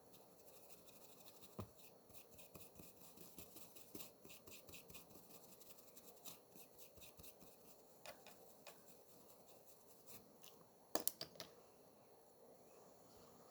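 Faint rapid small clicks and light scratching, with a brief cluster of sharper clicks near the end.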